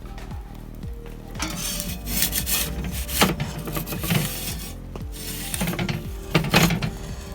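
Rough scraping and rubbing handling sounds, wood and metal at a wood-fired pizza oven, coming in several uneven bouts, the loudest about three seconds in and again near the end, over soft background music.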